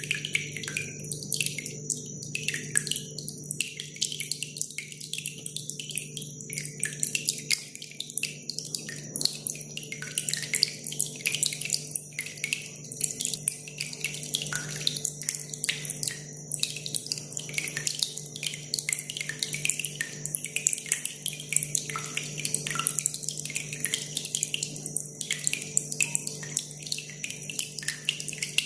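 Water dripping and trickling, a dense, irregular run of small splashes, over a faint steady low hum.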